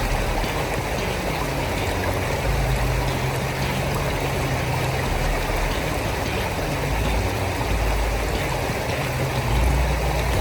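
Range Rover L405's supercharged V8 driving off-road, a low engine hum swelling and fading under a steady rushing noise.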